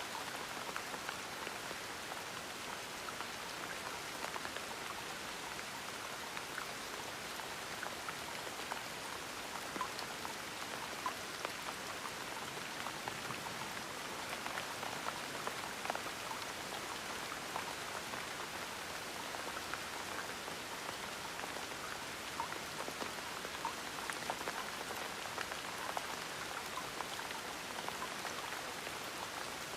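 Gentle rain falling steadily, a soft even patter with many small individual drops ticking through it.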